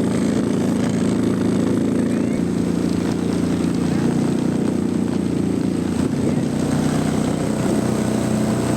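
ATV engine running at a steady pitch.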